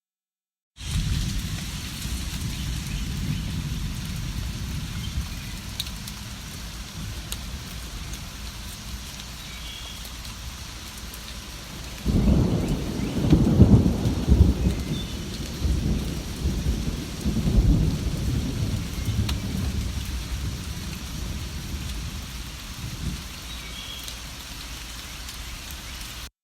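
Steady rain with a low rumble, starting after a brief silent gap; about halfway through, a roll of thunder swells and rumbles for several seconds before fading back into the rain.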